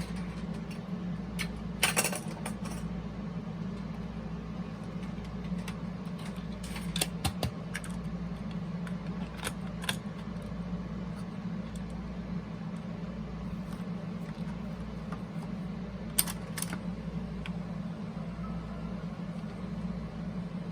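Scattered sharp plastic clicks and rattles of a cassette tape being handled and loaded into a Toshiba RT-8056 boombox's cassette deck, over a steady low hum.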